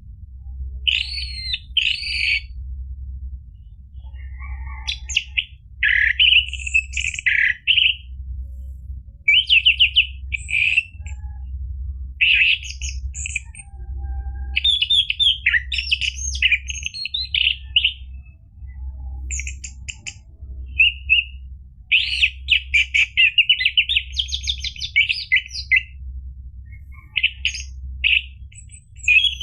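Orange-headed thrush singing: a long run of quick, varied warbled phrases and rapid trills with short breaks between them, over a steady low hum.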